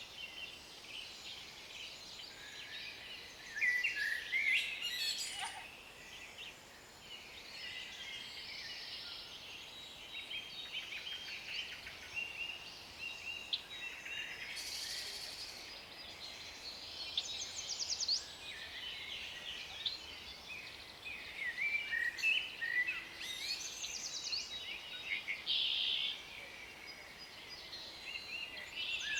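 Several wild songbirds singing and calling, with overlapping short chirps and trills over a faint hiss of outdoor air; the bird calls come in louder bunches about 4 s in, around 15 s and again after 22 s.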